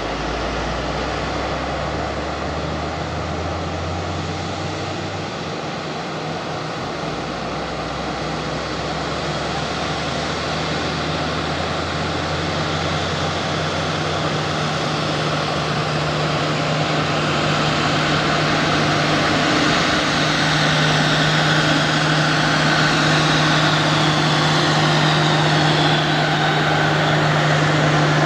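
Heavy truck engine running steadily under load, a constant drone that grows gradually louder.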